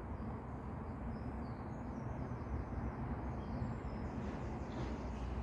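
Faint, short bird chirps scattered over a steady low rumble, with a few more chirps close together near the end.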